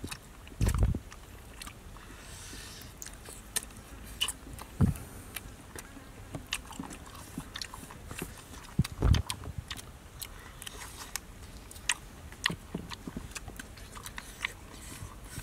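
Two people chewing and biting cooked snake meat close to the microphone: many small wet clicks and crunches, with a few dull thumps, the loudest about nine seconds in.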